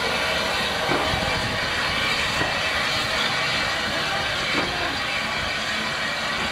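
Steam-hauled train of coaches rolling slowly past, a steady noise of wheels running on the rails.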